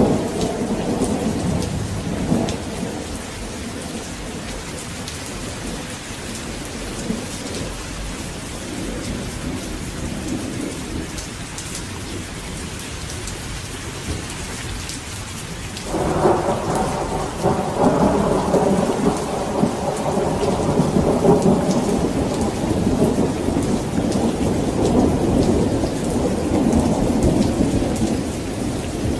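Thunderstorm: steady rain falling, with a roll of thunder dying away in the first few seconds and a new long rumble of thunder breaking in suddenly a little past halfway and rolling on to the end.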